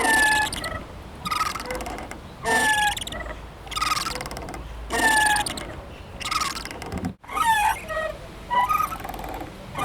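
Playground swing squeaking as it swings back and forth: short, falling, high squeaks in a regular rhythm, about one every 1.2 seconds, with a momentary gap about seven seconds in.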